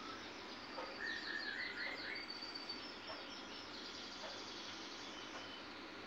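Several small birds chirping and twittering over a steady outdoor hiss, with a quick run of repeated high chirps and a warbling phrase about one to three seconds in.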